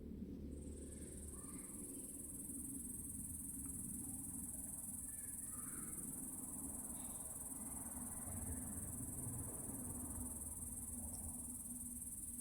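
A steady high-pitched insect drone, like crickets, that starts about half a second in and cuts off suddenly at the end, over a low steady rumble.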